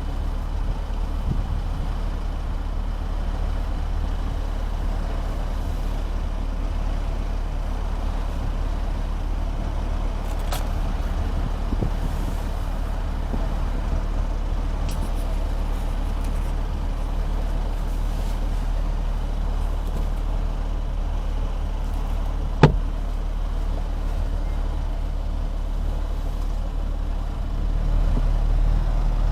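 BMW M4 Competition's twin-turbo straight-six and its road noise while driving: a steady low drone with a sharp click about 23 seconds in. The low rumble grows louder near the end.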